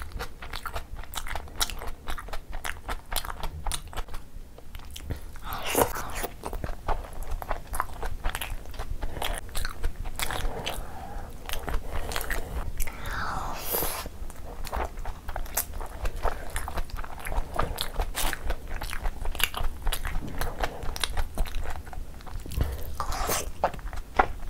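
Close-miked wet chewing and lip smacking of saucy curry eaten by hand, with sticky finger and mouth clicks throughout and a short slurp about halfway.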